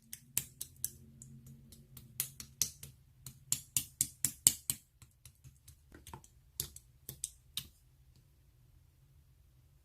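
Slime being pressed and worked by hand, trapped air popping in sharp, crisp clicks, a few a second in clusters, stopping near the end.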